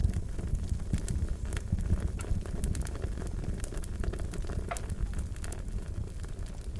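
Wood fire crackling: a steady low rumble with frequent irregular sharp pops and snaps.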